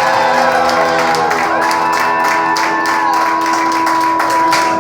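A crowd clapping and cheering, with steady held musical notes sounding underneath.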